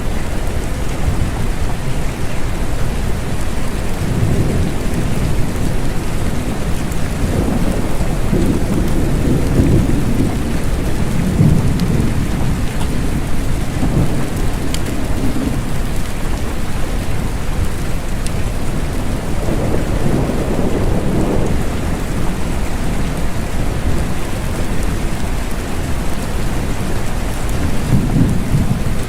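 Steady rain falling, with several low rolls of thunder that swell and fade, a few seconds apart.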